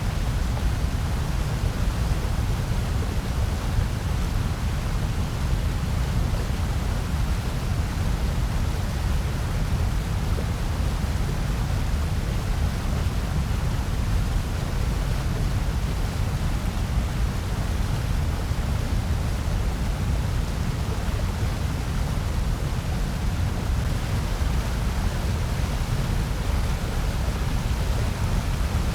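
Steady synthetic noise, given out as white noise, even and unchanging, with its weight in a deep low rumble under a softer hiss.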